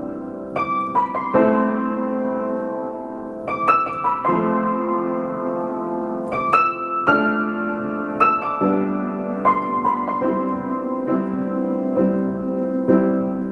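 Solo piano playing a slow piece: chords and single notes struck about once a second and left to ring.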